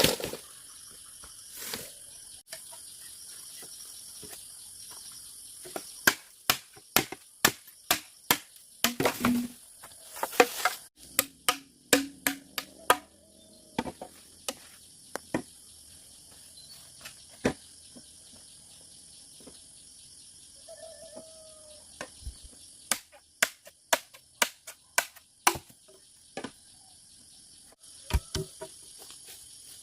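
Quick runs of sharp knocks, a few a second, in two stretches: from about six seconds in to about thirteen, and again near the end. Under them runs a steady high insect buzz, like crickets.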